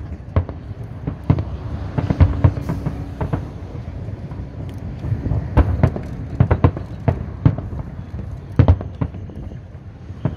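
Aerial fireworks shells bursting in an irregular barrage of booms and sharp cracks, several a second, over a continuous low rumble. The loudest clusters come about two seconds in, around the middle, and a little past eight seconds.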